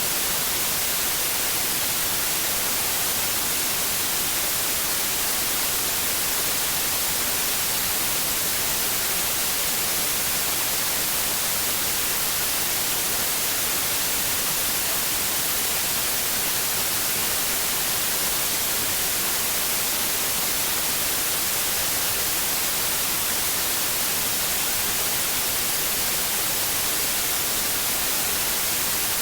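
Steady white noise: an even, unchanging hiss, strongest in the high end, played continuously as a sleep aid for babies.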